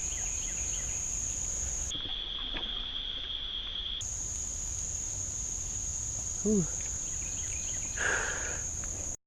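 Steady, high-pitched chorus of insects; for about two seconds in the early part a lower-pitched insect drone takes its place.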